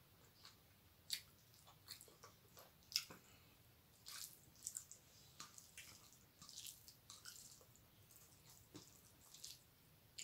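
Faint, wet chewing and lip smacking of a mouthful of rice and curry, with fingers squishing and mixing rice and dal on a steel plate. Irregular short smacks and clicks, a few louder ones about one and three seconds in.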